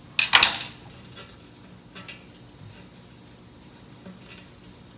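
Small metal parts clinking and knocking together as they are handled: a quick cluster of sharp clinks just after the start, then a few faint ticks.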